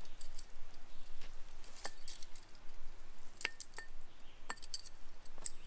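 Metal tent stakes clinking against each other as they are handled and pulled out of their bundle: a string of short, sharp clinks, some with a brief ring, coming irregularly.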